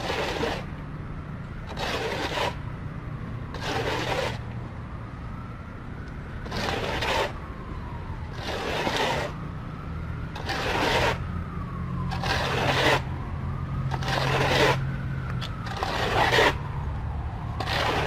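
Repeated scraping strokes, about one every two seconds, over a steady low hum and a faint tone that rises and falls between strokes.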